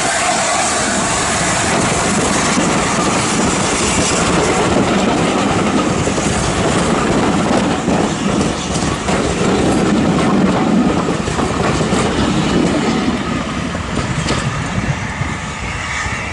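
Passenger coaches of a train rolling past at close range, their wheels clattering over the rail joints. The sound eases off near the end as the last coach draws away.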